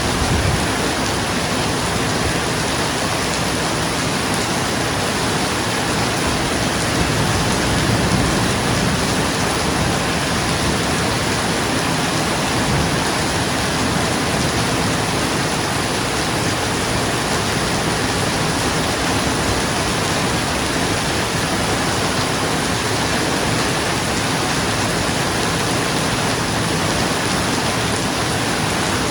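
Steady heavy rain drumming on a roof, an even dense hiss with no pause, and a brief low rumble swelling about eight seconds in.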